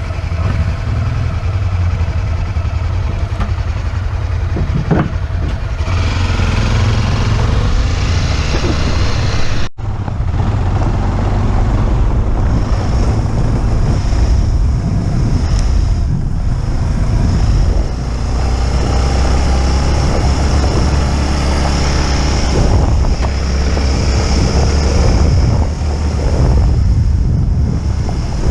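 Motorcycle engine running while riding, with wind rushing over the microphone. The sound cuts out for an instant about ten seconds in.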